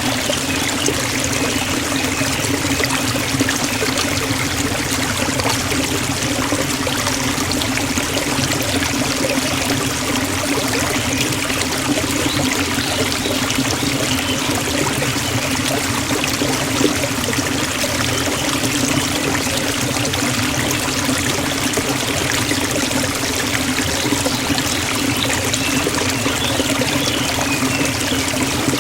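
Forest waterfall and stream: a steady rush of falling and splashing water.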